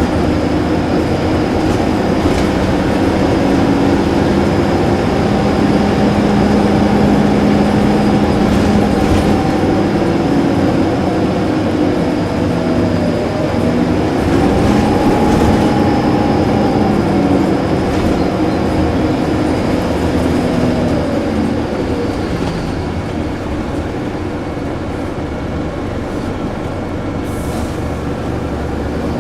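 Diesel city bus running, with a steady engine drone and a thin high whine. Around the middle the engine note rises and then falls back, as when the bus pulls away or changes gear, and it eases off a little towards the end.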